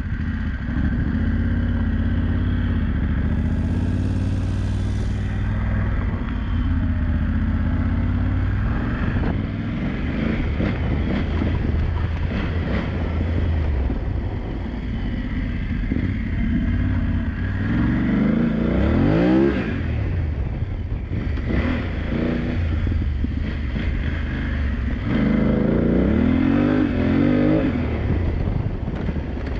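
BMW F900GS's parallel-twin engine running hard on an off-road track. The engine pitch climbs and drops as it is revved up and eased off, most clearly about two-thirds of the way in and again near the end.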